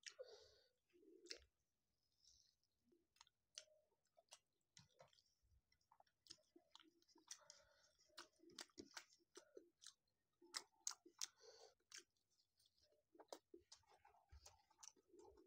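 Faint chewing and eating sounds: a person chewing food, with many short, sharp clicks in between.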